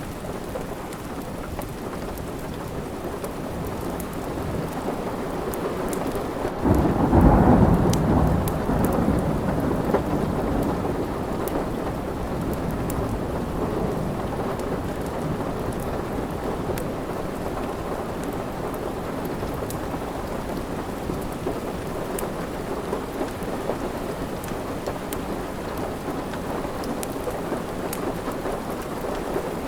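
Steady rain with a thunderclap about seven seconds in, the loudest sound, rumbling off over the next few seconds. A fireplace crackles with scattered sharp pops throughout.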